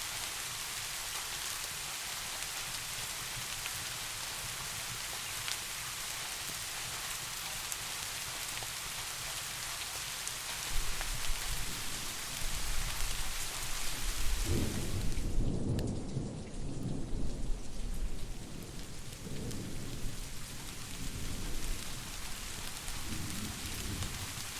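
Steady rain falling, then distant thunder rolling in about ten seconds in, a long low rumble that swells to its loudest in the middle and keeps rolling in waves, while the rain hiss thins briefly at the peak.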